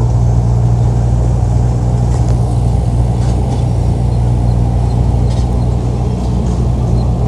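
Large diesel engine of earthmoving machinery running steadily at a constant low pitch, with a few faint knocks and clanks.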